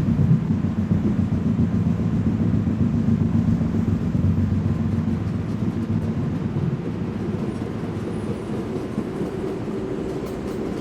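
NYC subway R142A car running on the rails, a steady low rumble with the hum of its motors, getting quieter and fading over the last few seconds.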